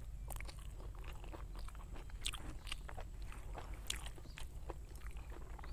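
Close-miked mouth sounds of a person chewing pork biryani: wet smacks and sharp clicks at irregular intervals.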